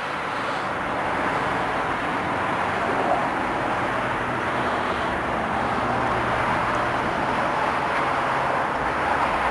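Steady rush of rainwater runoff pouring off a rock and tumbling down a small hillside waterfall, with road traffic humming underneath.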